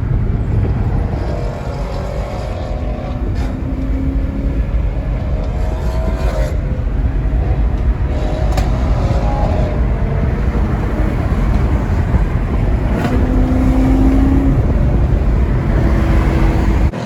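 Car engines and exhausts running under way, a loud steady low rumble with brief rising engine tones now and then.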